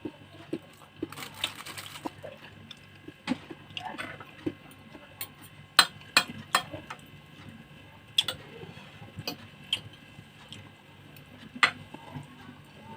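Close-miked eating noises: irregular wet mouth smacks and clicks of chewing, with a brief crunch or rustle about a second and a half in, over a faint steady hum.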